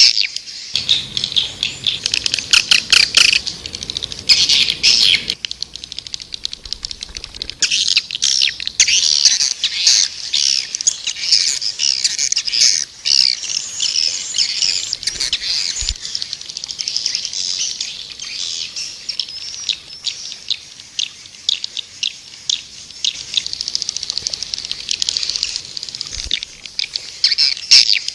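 Swiftlets twittering: a dense, continuous run of rapid high chirps and clicking trills.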